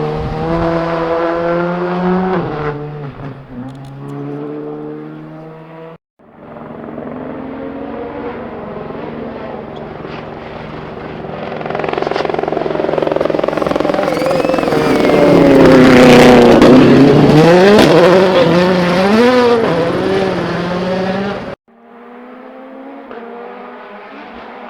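World Rally Cars' 1.6-litre turbocharged four-cylinder engines at racing speed, heard in three separate passes. In the first, a car accelerates through the gears and fades away. In the second, a car approaches, gets much louder and passes close about two-thirds of the way through, its engine note dropping and rising with lifts and gear changes. In the third, a car is heard more faintly.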